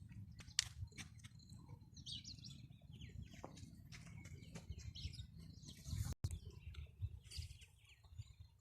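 Small birds chirping in short, high calls, over a steady low rumble with a few sharp clicks.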